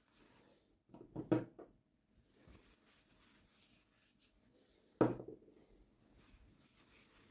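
Quiet handling of small objects with a few light knocks about a second in and a sharper single knock about five seconds in.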